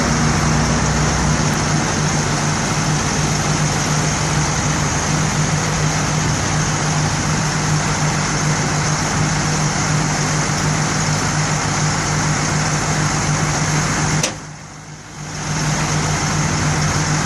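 Steady engine hum of an idling vehicle, with a low drone over a noisy rush. The sound drops out suddenly for about a second near the end, then returns.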